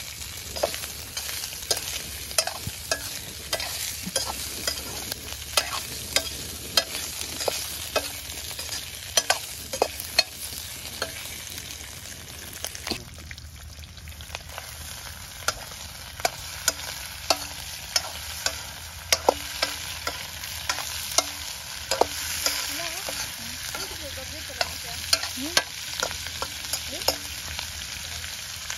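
Pork frying in oil in a metal kadai, a steady sizzle, while a metal ladle stirs it, scraping and clinking against the pan about once or twice a second. The sizzle dips briefly about halfway through.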